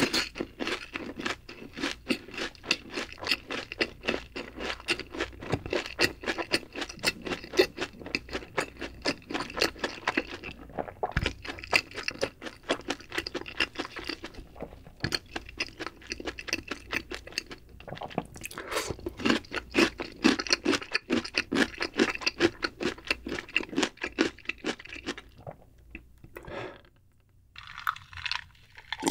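Close-miked chewing of a fried cheese ball: a fast, steady run of small clicky crunches and wet mouth sounds with a few brief pauses. Near the end, a sip from a jar of iced drink.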